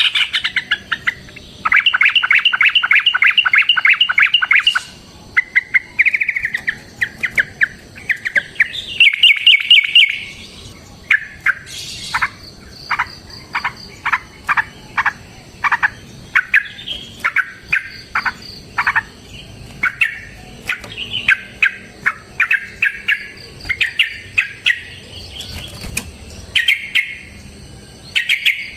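Yellow-vented bulbul (trucukan) singing loudly: fast rattling trills in the first third, then a long run of separate sharp chirps, about two a second.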